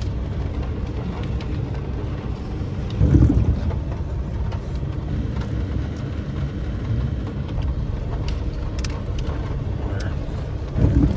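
A vehicle driving slowly with a steady low engine and road rumble, swelling louder twice: about three seconds in and again near the end.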